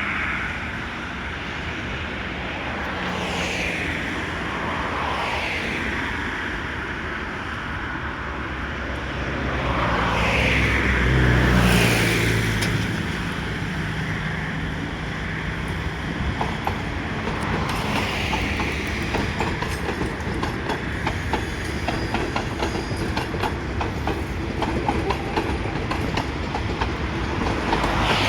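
Passenger train running past close by: a low running drone that swells to its loudest about twelve seconds in, with a few falling whines. Through the second half comes a quick, steady clickety-clack of wheels over the rail joints.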